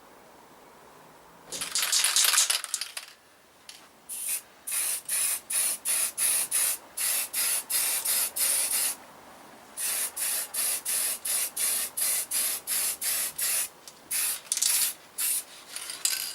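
Aerosol spray paint can spraying in short, rapid bursts, about two a second, with a brief pause midway, as a proper coat of touch-up paint goes onto small motorcycle parts. A longer, rougher burst of hiss comes about two seconds in.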